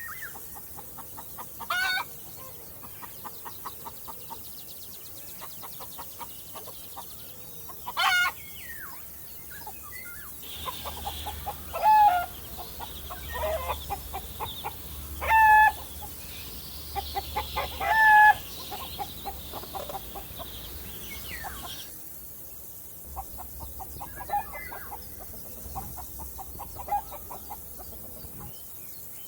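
Chickens clucking in quick runs, with five loud squawking calls spread through.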